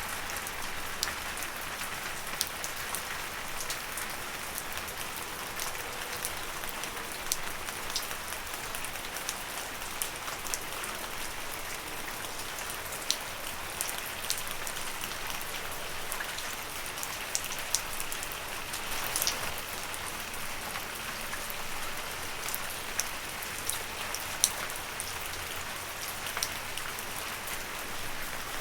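Steady gentle rain falling on leaves, a soft even patter with many separate drops ticking sharply throughout.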